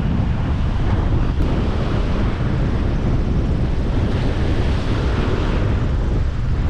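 Strong wind buffeting the microphone, with ocean surf breaking on the beach.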